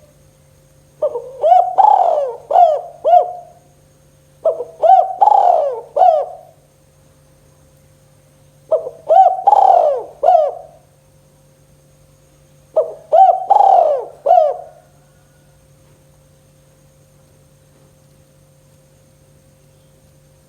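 Spotted dove (tekukur) cooing: four phrases of several rising-and-falling coos each, a few seconds apart, then it stops for the last several seconds. A faint steady hum runs underneath.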